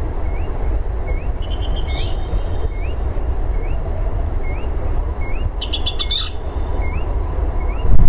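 Songbirds calling: one repeats a short rising note about once every three-quarters of a second, while another gives a brief rapid trill twice. A steady low rumble runs underneath.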